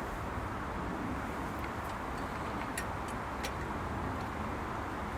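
Steady low rumble with about half a dozen light, sharp clicks scattered through it, from metal chainsaw-mill hardware being handled.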